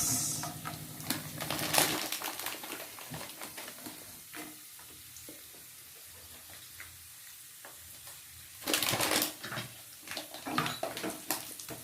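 Raisins frying in a pan with a light sizzle, and a spoon clicking and scraping against the metal as they are stirred. A louder burst of stirring comes about nine seconds in.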